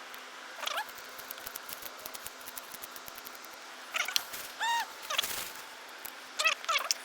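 Short pitched animal calls, a few spread out with several in a quick cluster near the end, some arching up and down in pitch, over faint rapid ticking.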